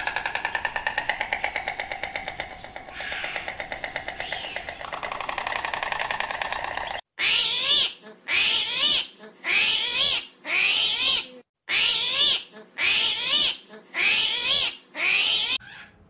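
Animal calls: for about seven seconds a steady, rapidly pulsing pitched call, then an abrupt switch to a series of short, loud repeated calls about one a second.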